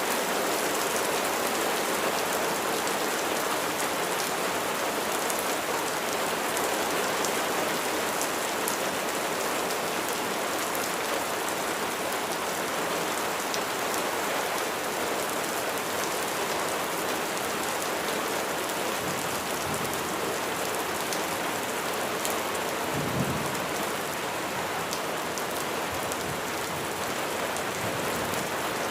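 Steady rain falling and pattering on surfaces, with fine individual drop ticks over an even hiss. A brief low rumble comes about two-thirds of the way through.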